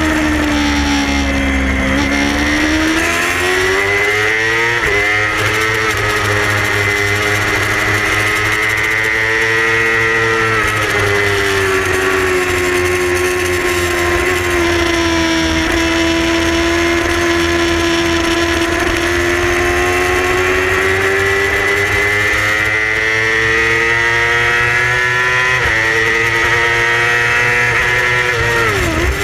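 Yamaha R6 600cc inline-four race bike engine at racing speed, its pitch falling under braking, climbing through the revs and stepping at gear changes, with a low rush of wind underneath.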